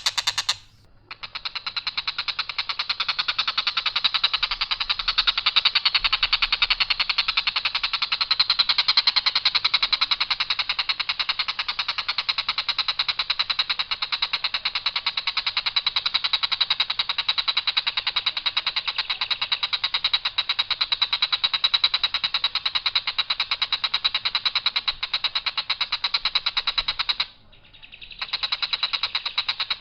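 Tengkek buto kingfisher calling: a long, harsh, very rapid trill, high-pitched and unvarying, breaking off briefly just after the start and again near the end before starting up again.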